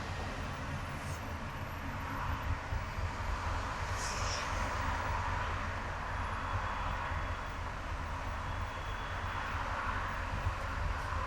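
Car driving on a highway: steady road and engine rumble with tyre noise, and a short hiss about four seconds in.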